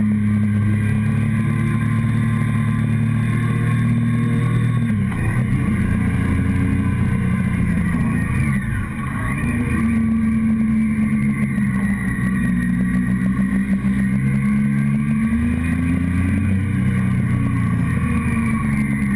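Motorcycle engine heard close up from the fuel tank while riding, running steadily, with the revs dropping and climbing back twice, about five seconds in and again near the middle.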